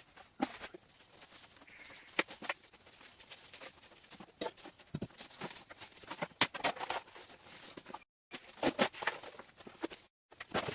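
Irregular light knocks, taps and clicks, some sharper than others, broken twice near the end by a brief moment of dead silence.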